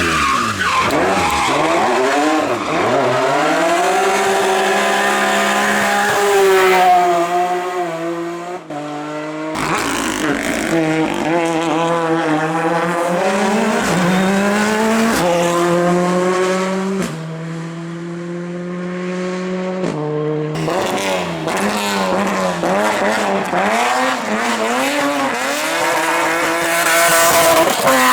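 Competition car engines at full attack on a hillclimb, each engine's pitch rising hard and then dropping on gear changes and lifts, over and over. The sound changes abruptly three times, from one car's pass to another.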